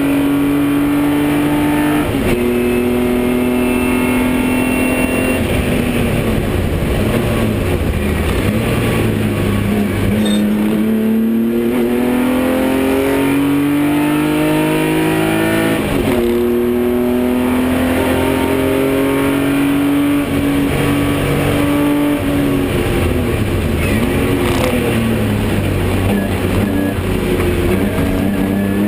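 BMW 325i race car's 2.5-litre straight-six engine heard from inside the stripped cabin, running hard at racing revs. The engine note climbs through the gears with sharp changes in pitch at each shift, about 2 seconds in and again around 16 seconds, and falls away twice under braking, around 6 to 10 seconds and 22 to 25 seconds.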